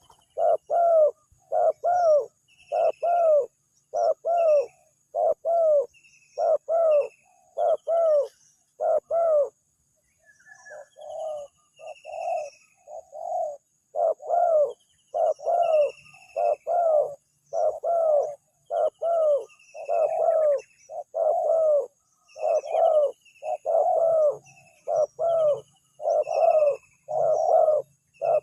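Spotted dove (tekukur) cooing over and over, about one loud coo a second, with a short break about ten seconds in where softer coos come through before the steady cooing resumes. Small birds chirp faintly in the background.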